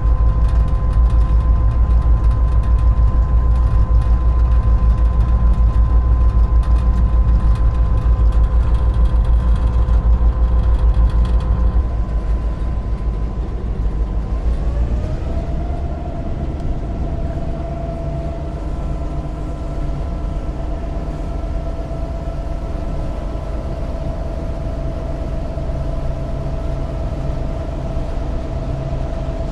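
Inside the cab of an EMD GP38-2 diesel locomotive under way, its 16-cylinder two-stroke engine and running gear giving a loud steady rumble with a steady whine over it. About halfway through the rumble eases, and the whine glides up in pitch over a second or two, then holds at the higher pitch.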